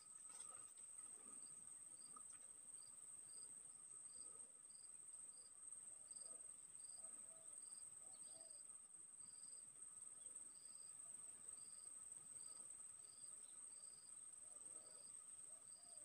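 Faint rural insect chorus: a steady high-pitched cricket or cicada drone with a short, higher chirp repeating about three times every two seconds.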